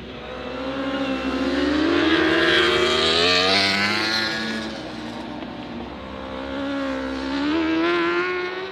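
British Superbike racing motorcycles accelerating past, engine notes rising in pitch. The loudest pass is about three seconds in, and a second bike passes near the end.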